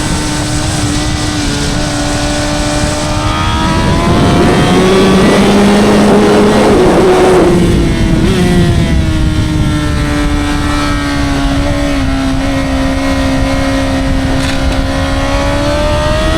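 Honda CBR1000RR's 999 cc inline-four engine and exhaust heard on board at speed: a steady high engine note whose pitch sags and lifts gently. It grows louder and rougher with a rushing sound for a few seconds in the middle, then settles back.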